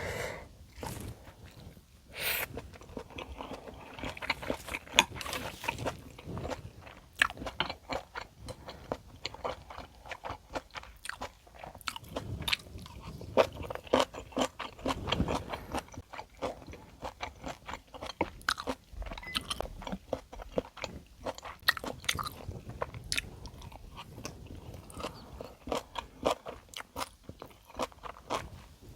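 Close-miked eating sounds: a person biting, crunching and chewing food, with many quick moist clicks and crackles.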